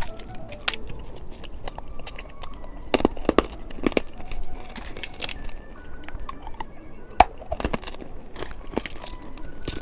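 Close-miked eating sounds: irregular chewing, biting and crunching of candy snacks, with sharp crackles clustered about three to four seconds in and a single loud one about seven seconds in.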